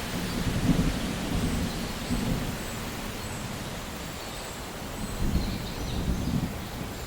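Steady rain with low rolling thunder rumbling under it, fading in the middle and swelling again near the end. Faint high chirps come and go above the rain.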